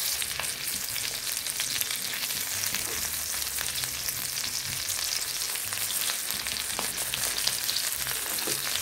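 Mutton keema kebabs shallow-frying in oil in a nonstick pan over a low flame: a steady sizzle full of fine crackling, with a few clicks as a slotted spatula turns the patties.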